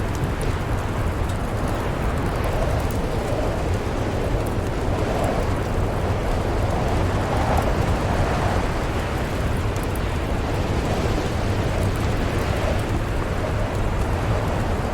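Snowstorm wind blowing hard, swelling and easing in gusts over a deep rumble, with scattered small crackles from a wood fire.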